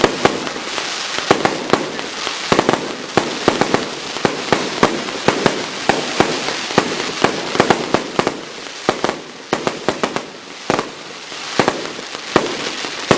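A 100-shot 1.3g display fireworks cake firing in rapid succession: sharp shots and bursts, several a second at an irregular pace, over a steady crackling hiss from the strobe and time-rain effects.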